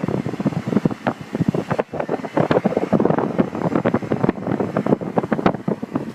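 Irregular crackling and buffeting noise on the microphone, dense and uneven, with no steady whine standing out.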